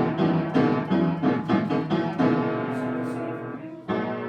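Piano chords struck several times in quick succession, then a chord held and fading, with another chord struck near the end.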